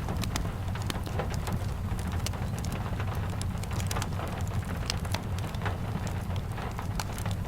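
Steady rain falling, mixed with a crackling fireplace: an even hiss over a low rumble, dotted with many short sharp pops and ticks.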